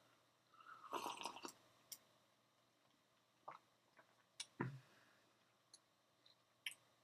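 Near silence with a few faint, sparse computer mouse clicks, a second or more apart, as chess moves are made, and a soft mouth noise about a second in.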